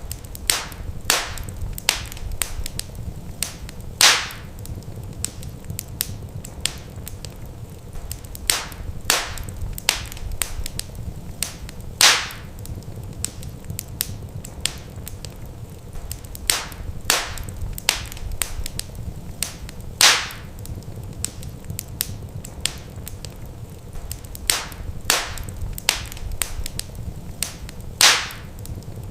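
Wood fire crackling in a fireplace: scattered sharp snaps and pops over a low steady rumble, with a louder pop about every eight seconds.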